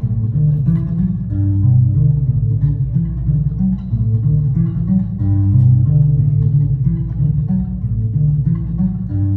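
A band plays an instrumental passage on amplified guitars and bass. The low bass notes are the loudest part and move in steady steps under the guitar.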